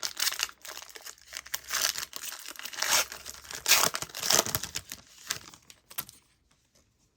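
Trading-card pack wrapper being torn open and crinkled in a run of crackly bursts, dying away after about six seconds to a few light clicks.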